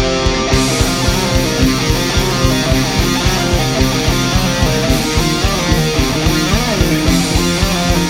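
Rock band playing an instrumental passage: electric guitars over bass, with a drum beat pulsing steadily underneath.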